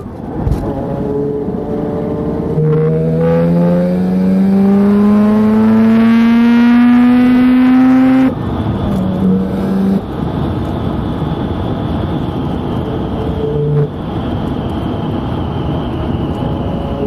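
Mazda RX-7's single-turbo rotary engine accelerating, its pitch climbing steadily for about six seconds and then cutting off suddenly as the throttle closes. It then runs on at lower revs with short throttle blips and a faint high whine.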